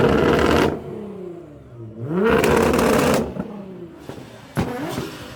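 Car engine revved hard twice, its pitch climbing quickly and then dropping back after each blip. A few sharp cracks follow near the end.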